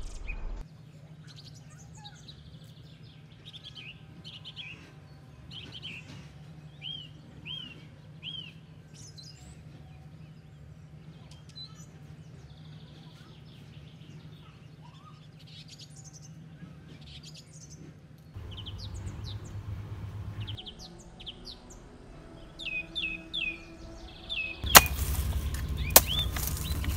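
Small birds chirping repeatedly in short, quick, curved notes. Near the end, a digging tool chops into soil with two sharp knocks.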